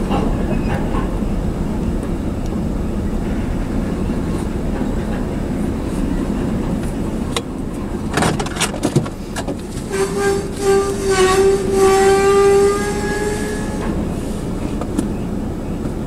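Loaded freight train cars rolling past close by: a steady rumble of covered hoppers on the rails, with a run of sharp wheel clicks and clanks about eight seconds in. Near the end, a single pitched, squeal-like tone rides over the rumble for about three seconds.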